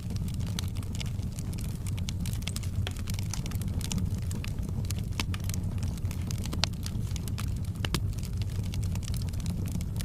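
Fireplace fire burning with a steady low rumble and dense, irregular crackles and pops, one pop a little louder about six and a half seconds in.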